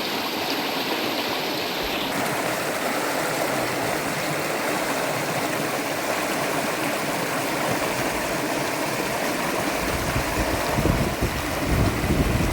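Steady rushing of flowing water, with low rumbles coming in near the end.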